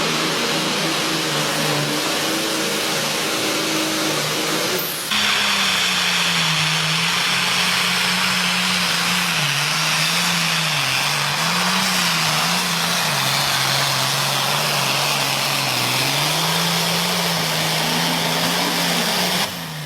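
International Harvester pulling tractor's engine running hard under load during a pull. Its pitch rises and falls as the revs vary, with a loud rushing noise over it. The sound changes abruptly about five seconds in.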